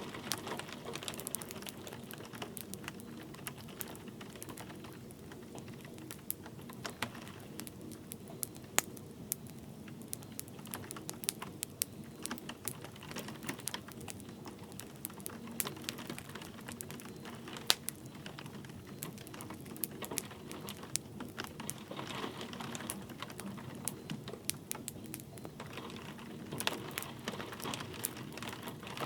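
Wood fire crackling with irregular sharp pops and snaps over a soft steady hiss of light rain.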